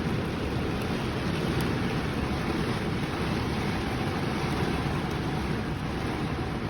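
Heavy rain pouring down as a steady, unbroken rushing noise.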